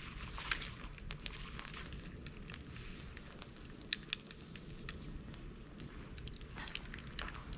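Bonfire of dried bamboo and brush crackling steadily, with many small crackles and two sharper pops about four seconds in.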